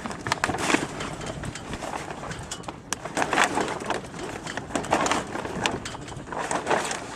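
Sailcloth rustling and crinkling in repeated swells, with scattered small sharp clicks, as the jib's hanks are unclipped and the sail is gathered.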